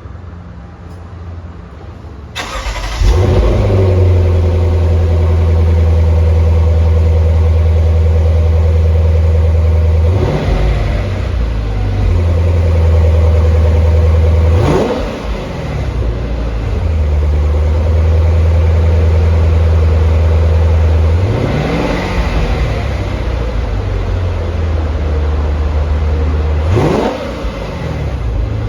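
Lexus GS F's 5.0-litre V8 (2UR-GSE) starting about two and a half seconds in, flaring up and settling into a steady idle. It is then revved four times, each a quick rise and fall in pitch, the third one slower and rounder.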